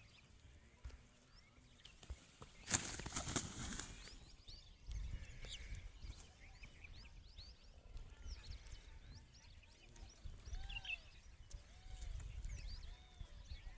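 Faint, scattered chirping and peeping of several birds throughout. About three seconds in comes a brief loud rustle lasting about a second, and there is a low rumble at times.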